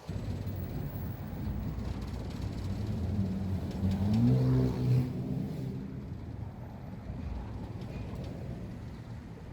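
A vehicle engine over steady low rumble, its pitch rising as it speeds up about three seconds in and loudest around four to five seconds, then easing back into the rumble.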